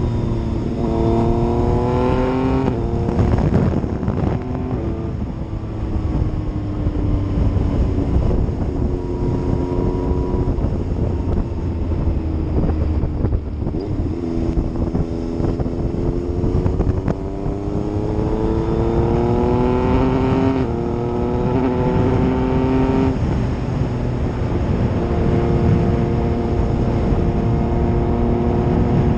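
Yamaha MT-09's three-cylinder engine under way, its note climbing as it accelerates and dropping abruptly at upshifts several times, with long stretches of falling or held pitch in between, over a steady rush of wind.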